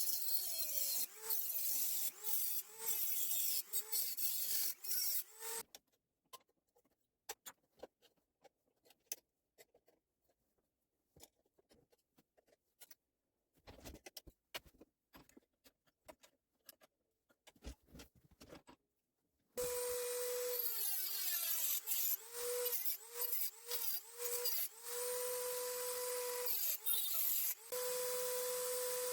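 Dremel rotary tool with a cutting disc cutting into a Stihl MS170 chainsaw's metal muffler. The high whine sags and wavers as the disc bites. It stops about five seconds in, leaving some seconds of light clicks and handling, and starts again near two-thirds of the way through, dipping a few times before running steadily.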